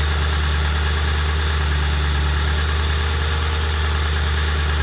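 Ford 4.6-litre V8 idling steadily with the water pump freshly replaced, left running while the pump and hose joints are checked for coolant leaks.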